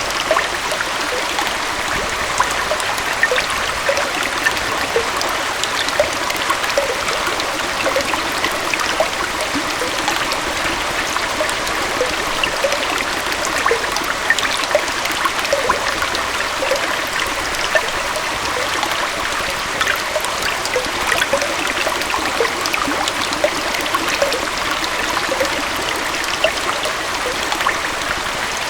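Gentle waterfall running steadily: a continuous rush of flowing water with many small bubbling plinks throughout.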